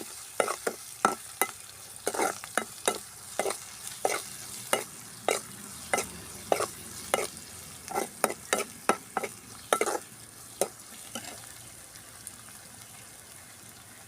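A spoon or ladle stirring finely chopped onion and green chillies sautéing in hot oil in a pan. Sharp, irregular knocks against the pan come one or two a second over a steady sizzle. The knocks stop about eleven seconds in and the sizzle continues.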